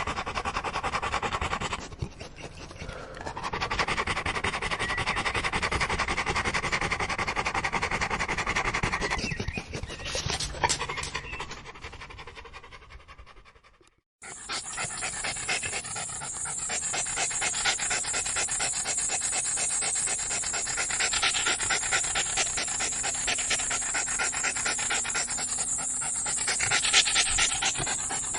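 A dog panting rapidly and steadily. About halfway through, the panting fades out, and a second, brighter-sounding stretch of panting begins abruptly and continues.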